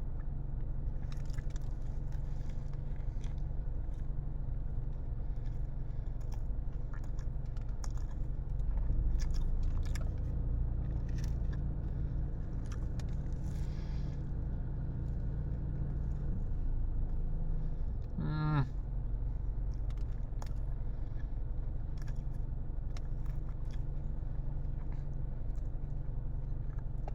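A person biting and chewing a chicken burger in a run of small, irregular mouth and wrapper clicks, over a steady low rumble. A short pitched sound comes about two-thirds of the way through.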